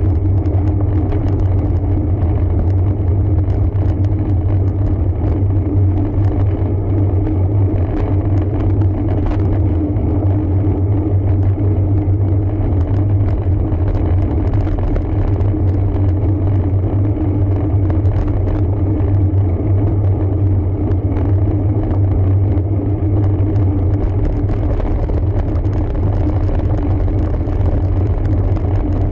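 Steady low rumble of a road bike being ridden, made up of tyre and wind noise on a camera microphone carried on the bike.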